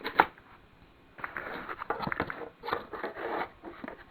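Handling noise from homemade cast-lead fishing weights: one sharp knock just after the start, then about two and a half seconds of scraping and rustling.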